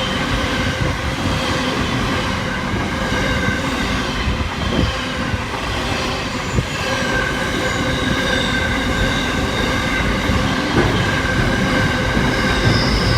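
A train running through the station with a steady rumble of wheels on track. Thin high tones come in more strongly about halfway through.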